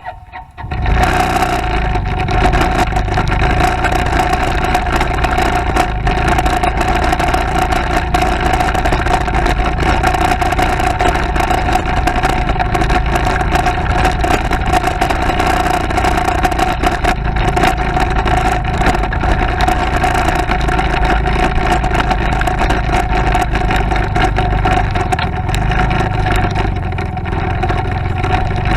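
Motorcycle engine running steadily while riding, with wind and road noise. It comes in suddenly about a second in after a brief lull.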